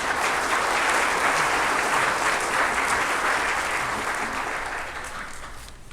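Congregation applauding after a choir-and-orchestra piece ends, the clapping starting at once and dying away over the last couple of seconds.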